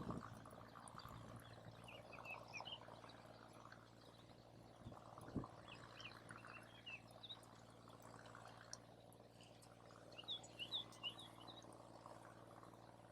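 Faint wood campfire with scattered light crackles and a couple of soft knocks. Three short runs of quick high chirps from a small animal come and go over the top.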